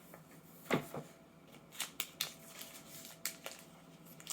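Plastic snack wrapper of a mochi being handled and opened: a handful of short, sharp crinkles and clicks spaced irregularly.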